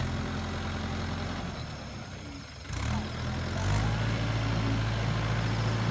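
Tractor diesel engine running steadily, getting louder a little under three seconds in and again nearly four seconds in, as if put under load.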